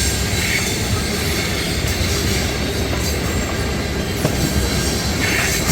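Loaded ethanol tank cars of a fast freight train rolling past: a steady, heavy rumble of steel wheels on rail with clatter over the joints.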